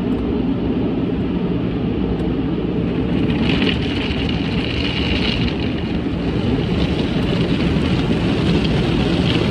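Automatic car wash running, heard from inside the car's cabin: a steady low rush of water and machinery, with a higher hiss joining about three and a half seconds in.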